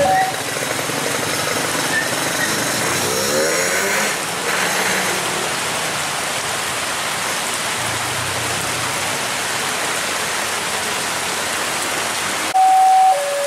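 Heavy tropical rain pouring steadily, a dense even hiss. Near the end a loud signal starts, alternating between two notes.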